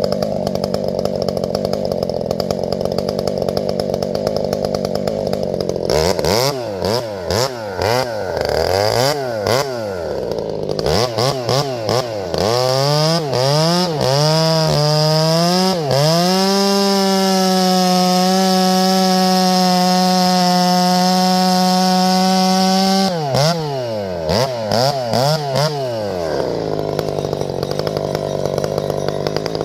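Husqvarna 372XP two-stroke chainsaw (the modified "Taz XP", fitted with a different muffler) running. It is blipped up and down several times, then revved to full throttle and held there for about seven seconds, blipped again, and settles back to a steady lower speed near the end.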